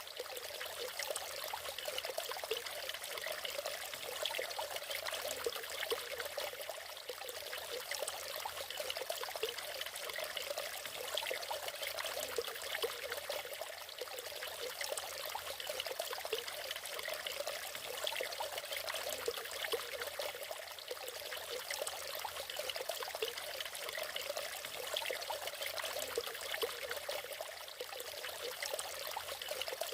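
Water from a natural waterfall splashing and trickling steadily, with a constant gurgling rush.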